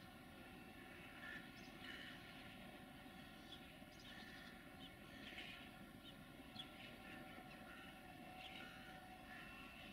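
Faint outdoor ambience: short, scattered bird chirps over a low, steady hum.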